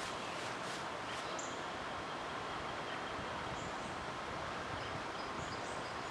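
Steady outdoor ambience of a light breeze, with a few faint short high chirps every second or two.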